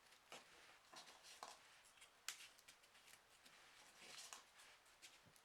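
Near silence, with faint rustles and a few light clicks of folded paper pieces being handled and pushed into place.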